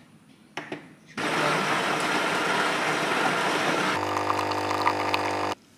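Siemens bean-to-cup espresso machine starting a brew: a click, then the grinder whirring for about three seconds, then the pump humming steadily as coffee pours into the cup, cutting off suddenly.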